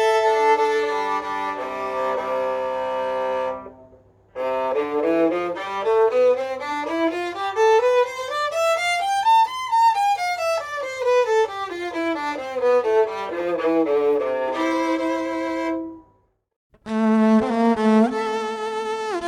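Fortevio Spirito five-string electric violin, bowed and played through a Tanglewood T6 guitar amp with no effects. It plays held notes, then a scale running up from the low strings to a high peak and straight back down, then more held notes after a brief pause, the last ones with vibrato. A faint low hum sits under the first part.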